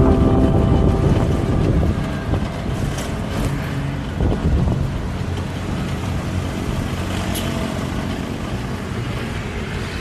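Traffic and road noise heard from a moving e-bike: a steady rumble of passing vehicles with wind on the microphone. Music plays over the first couple of seconds and then stops.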